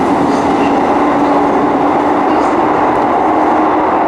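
ScotRail Class 320 electric multiple unit running along the platform: a loud, steady rumble with a steady hum under it that drops away near the end, echoing in the underground station.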